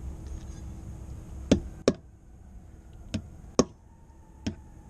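Hammer striking five times in short, sharp knocks, tapping to mark hole positions for a clamp.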